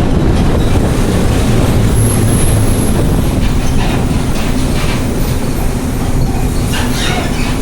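Mercedes-Benz OH1420 bus's OM366LA turbocharged six-cylinder diesel running through an open, straight-through exhaust, a heavy steady rumble with clattering rattles from the bus body. There is a faint high whistle about two seconds in.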